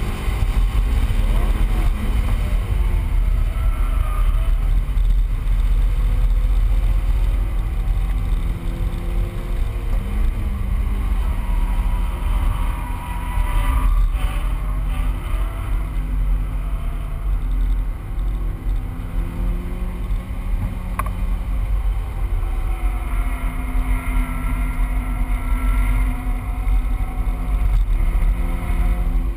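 Stock 2000 Honda S2000's 2.0-litre four-cylinder engine heard from inside the cabin under hard track driving, its pitch rising and falling with the revs, over a heavy low rumble of wind and road noise.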